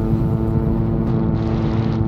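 VTOL drone's propellers running with a steady, even-pitched hum, while strong wind buffets the microphone with an irregular low rumble.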